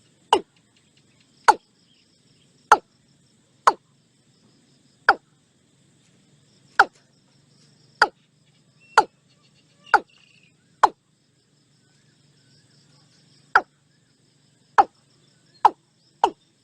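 Watercock giving short, sharp single calls about once a second, with a pause of a few seconds in the middle, then quickening into a fast run near the end. Faint insects trill underneath.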